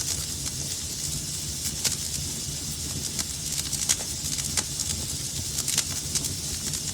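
Wood fire burning in a fireplace: a steady hiss and low rumble with irregular sharp crackles and pops, several a second at times.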